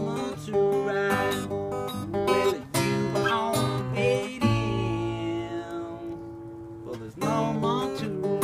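Acoustic guitar music, strummed and plucked chords.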